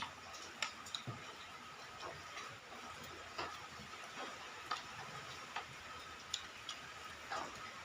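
Eating sounds: scattered, irregular light clicks and smacks of chewing and utensils on a bowl while eating spicy instant noodles, over a faint steady high tone.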